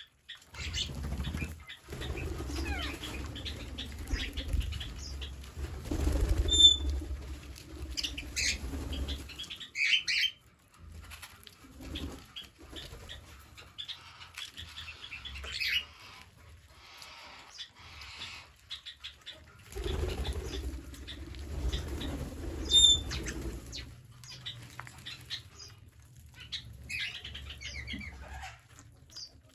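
Green parrots chirping and calling in short high notes, with a couple of sharp loud squawks and bouts of wing flapping.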